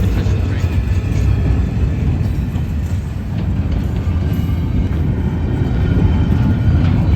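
East Penn Railroad freight train rolling along the track, a steady low rumble with faint high squeals, under heavy wind buffeting the microphone.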